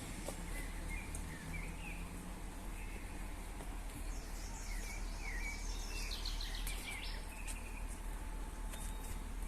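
Small birds chirping in short repeated calls, busiest about six seconds in, over a steady low background rumble.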